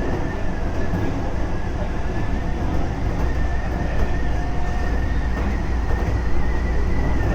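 Keisei 3400 series electric train heard from inside the car while running: a steady low rumble of wheels on rail, with a thin high whine held at nearly one pitch, the field-chopper control tone.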